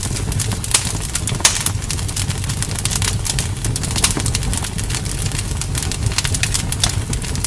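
Wood campfire crackling, with many quick sharp pops and snaps over a steady low rumble.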